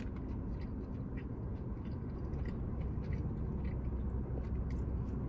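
Steady low hum of a room air conditioner running, with faint scattered crunches of a crispy egg roll being chewed.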